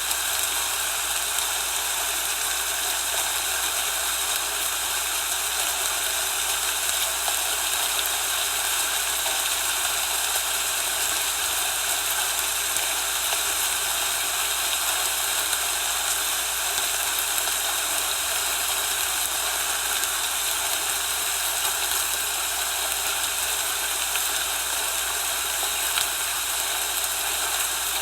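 Steady, even hiss with nothing standing out and no change throughout.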